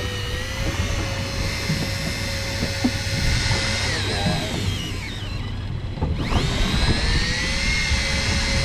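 A motor whining steadily over a low rumble. Its pitch sags and drops away about halfway through, then climbs back to the same steady note.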